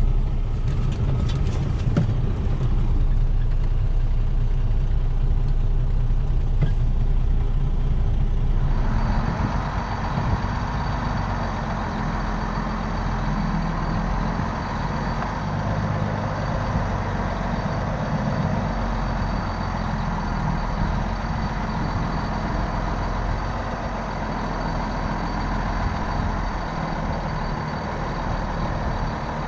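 Grain truck engine running steadily, with a steady rushing noise joining in suddenly about nine seconds in.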